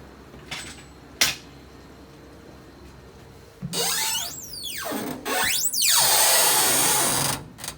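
The hinges of a 1954 truck door creaking loudly as the door swings, a squeal that sweeps down in pitch and then back up. A sharp click comes about a second in, over a faint steady hum.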